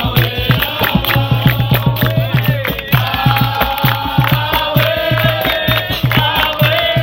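Capoeira roda music: a group singing over a steady, fast beat of low drum strikes and other percussion.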